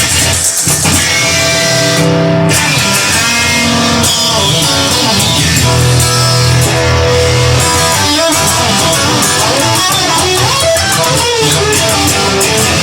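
Instrumental break in a rock song: guitar-led band playing steadily, with no vocals.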